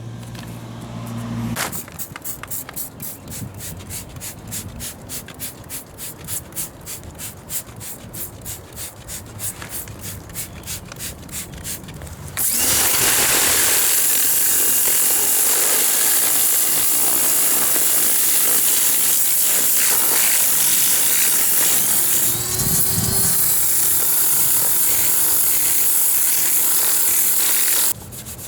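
Fast back-and-forth hand scrubbing strokes, then about halfway through a power tool starts and runs steadily, dipping in speed for a moment before running on and cutting off near the end: cleaning grime off engine parts.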